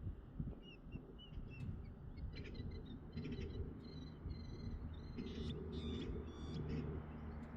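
A flock of sandhill cranes calling, many overlapping calls that grow busier after the first couple of seconds, over a low steady hum.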